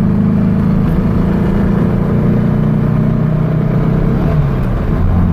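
Air-cooled 2276cc VW flat-four engine of a 1970 Baja Bug running under way, heard from inside the car. Its pitch sinks gradually about three to four seconds in, then the note changes near the end.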